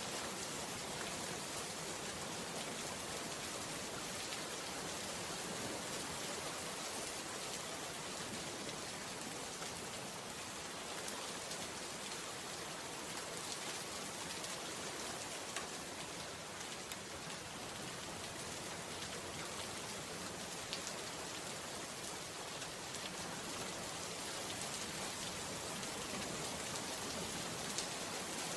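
Steady rain falling, an even hiss with many small drop patters on a surface.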